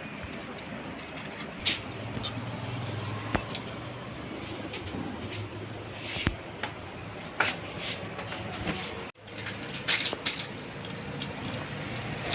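Scattered metallic clicks and clinks of hand tools and parts on a motorcycle engine being taken apart for a timing-chain change, over a low steady hum. The sound drops out briefly about nine seconds in.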